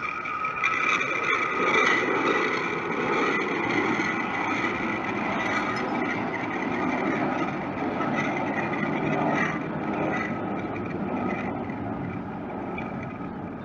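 Jet airliner engines running under power, with a steady whine over a loud rush that swells about a second in and then slowly fades.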